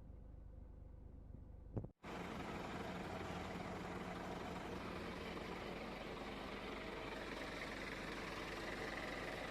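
A low hum, then a short thump and a brief dropout about two seconds in, after which a truck engine runs steadily.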